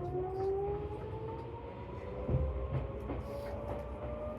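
Seibu New 2000 series electric train accelerating, heard from inside the car: the traction-motor whine rises steadily in pitch over the low rumble of the wheels on the rails. There is one short knock about two seconds in.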